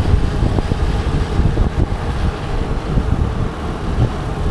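Scooter riding noise: a steady engine and road rumble with irregular low wind buffeting on the action camera's microphone.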